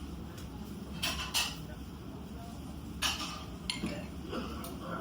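Cutlery clinking against plates and bowls, several short strikes spread through the moment, over a low steady room hum.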